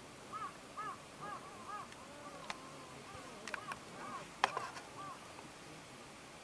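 A crow cawing in a quick series of about ten arched caws, roughly two a second, with a few sharp clicks mixed in near the middle.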